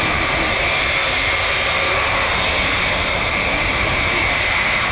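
Jet airliner engines running at a steady pitch: a loud, even rush of engine noise with a high, steady whine over it.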